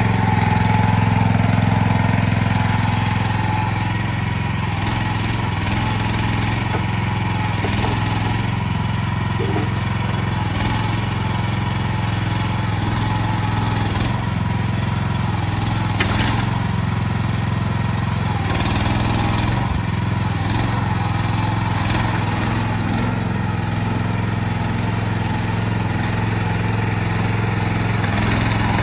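CFG MH12RX mini excavator's engine running steadily, with a brief click about sixteen seconds in.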